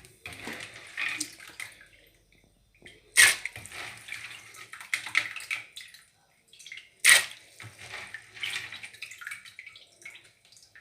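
Water sloshing and splashing as beans are put into a cooking pot, with two sharp louder splashes, about three seconds in and again about seven seconds in.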